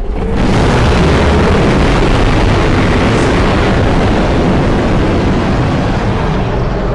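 Custom-designed giant-creature roar sound effect: one long, loud, rumbling noise with a heavy low end, held steady.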